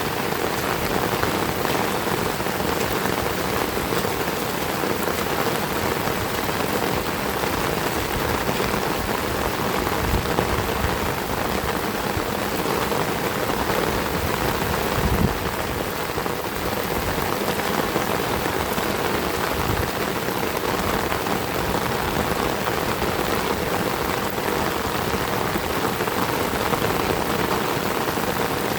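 Heavy rain falling and splashing on surfaces in a steady, dense hiss, with a low thump about ten seconds in and another near the middle.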